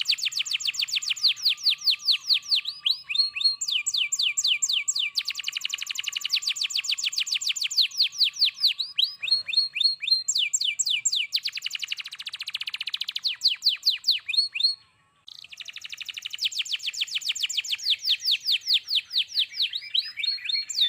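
Domestic canary singing a long, continuous song: fast trills of rapidly repeated downward-sweeping notes, changing from phrase to phrase, with one brief pause about fifteen seconds in.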